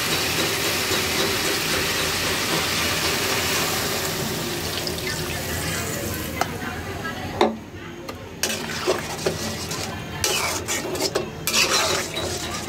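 Spiced wild yam and eggplant sizzling in a hot aluminium pot as they are stirred. About seven seconds in a sharp knock comes and the sizzle stops. Then a metal spatula scrapes and knocks against the pot as the curry, now in its gravy water, is stirred.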